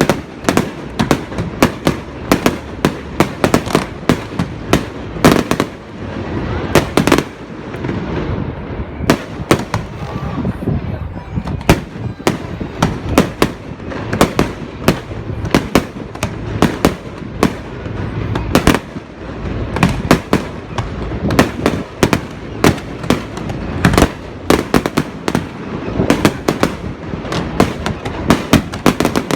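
Fireworks going off in a dense barrage: sharp bangs and pops, several a second, over a steady low rumble.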